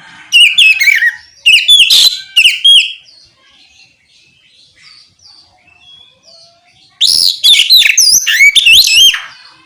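Oriental magpie-robin (kacer) singing its loud, open 'ngeplong' song: two loud bursts of fast whistled notes that slide up and down, separated by a few seconds of soft scattered notes.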